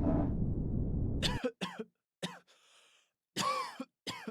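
Background chatter of many voices stops abruptly about a second and a half in. It is followed by a string of separate coughs and throat-clearings, the loudest and longest about three and a half seconds in: simulated test-room noise.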